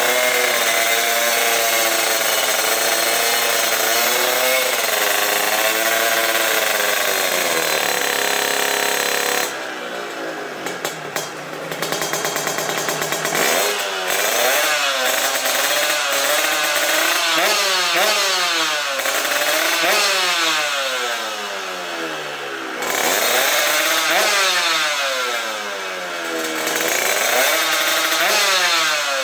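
Tuned two-stroke Kawasaki KR motorcycle engine with a 59 mm bore, revving hard: held at high revs with a wavering pitch for several seconds, then blipped again and again in quick rising and falling revs.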